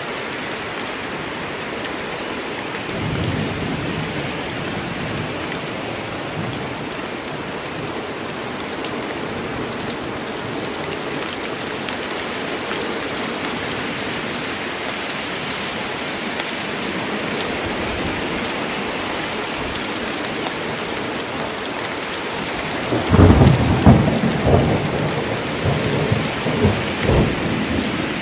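Steady rain falling in a forest, a constant hiss. A faint distant rumble comes a few seconds in, and then a loud roll of thunder breaks about five seconds before the end and rumbles on in several swells.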